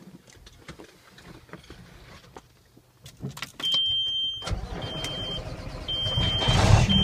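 Cab clicks, then a dashboard warning buzzer beeping about once a second as the 2003 Kenworth T800H's Cummins N14 diesel cranks and starts, with its rumble beginning about halfway through and growing louder into a steady run near the end.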